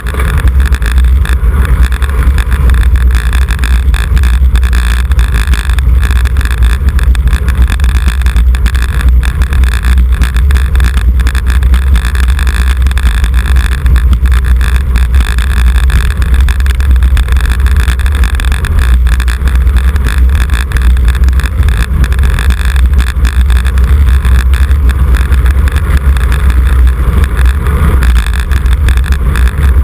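Loud, steady wind rush and road noise on a camera riding along in a bicycle road race, with a heavy low rumble of wind buffeting the microphone.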